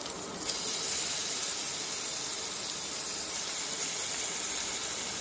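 Chopped onions frying in hot oil in a kadai, a steady sizzle that gets louder about half a second in as ginger-garlic paste goes into the pan.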